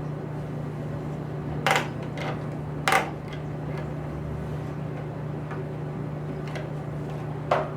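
Three sharp metallic clanks, the first two a little over a second apart and the third near the end, as channel-lock pliers knock against the jammed clutch and sprocket of a seized chainsaw. A steady low hum runs underneath.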